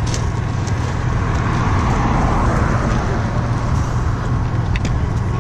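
A car passing on the road: its tyre and engine noise swells to a peak about halfway through and then fades, over a steady low rumble.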